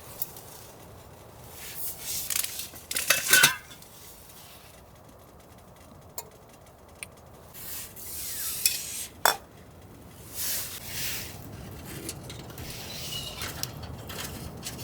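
Camp cookware and utensils being handled: irregular clattering and clinking of pots, dishes and cutlery, with a loud cluster of clinks about three seconds in and a sharp clink near the middle.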